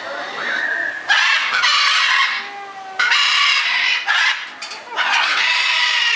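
Macaws squawking: a series of loud, harsh calls, each about a second long, coming one after another.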